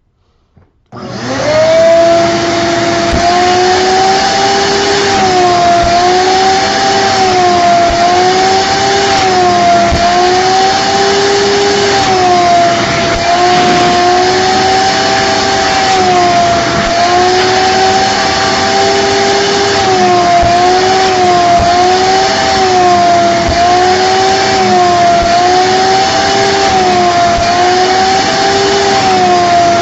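A vacuum cleaner switched on about a second in and running loudly, its motor whine wavering up and down in pitch every second or so.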